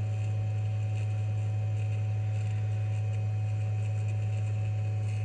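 Steady low hum, unchanging, with faint higher steady tones above it and nothing else standing out.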